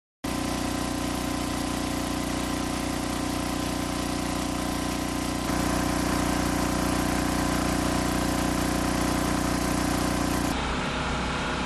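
An engine running steadily at idle, its hum changing abruptly twice, about halfway through and near the end.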